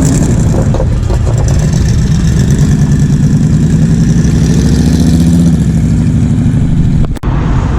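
A car engine running close by with a steady, deep note, its pitch rising a little around the middle. The sound drops out briefly near the end.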